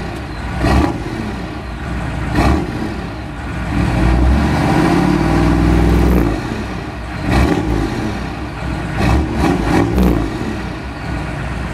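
A 1995 Chevy pickup's 6.5-litre turbo-diesel V8 is running. It is revved up once about four seconds in and drops back to idle about two seconds later.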